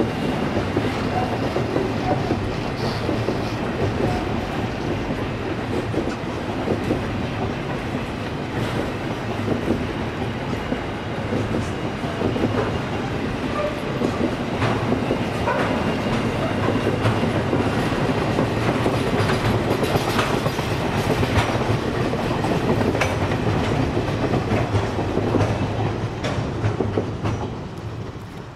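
Container wagons of a freight train rolling past at steady speed: a continuous rumble of wheels on rail with repeated short clicks from the wheels over the track. The sound fades out near the end.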